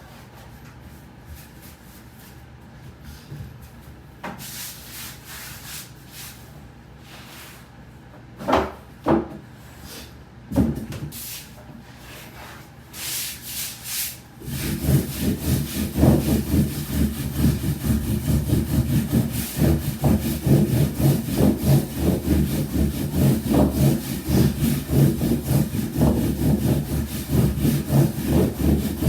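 Hand soba-making on a wooden board: light handling and a few wooden knocks, then about halfway through a steady run of quick, rhythmic wooden rubbing strokes as the buckwheat dough is worked.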